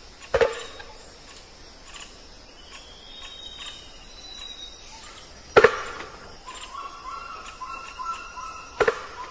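Pre-dawn forest chorus of insects and calls, with whistled notes and steady tones in the background. Three sharp knocks cut through it, about half a second, five and a half and nine seconds in; the last two are each a quick double knock.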